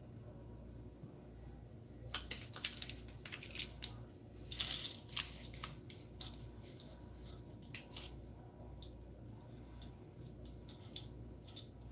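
Small pieces of silver clinking and rattling as they are put into a small melting vessel: a run of sharp clinks starting about two seconds in, thickest in the middle, then tapering off.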